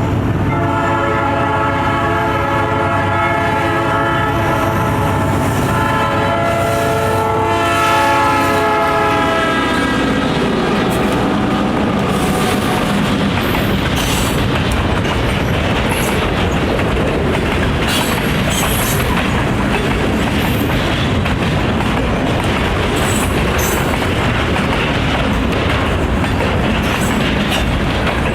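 Diesel freight train hauled by a GE B39-8E and two EMD GP38s passing close by, its locomotive horn sounding a chord for the first ten seconds or so and falling in pitch as the locomotive passes. Then comes the steady rumble of the locomotives and cars rolling past, with wheels clacking over rail joints and a few brief high wheel squeals.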